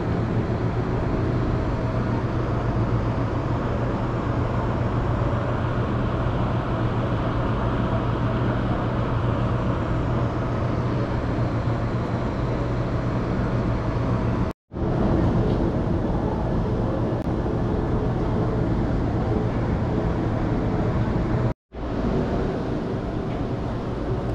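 Steady indoor background noise of an aquarium gallery, with a constant low hum. It cuts out to silence twice for a moment, about two-thirds of the way in and again near the end.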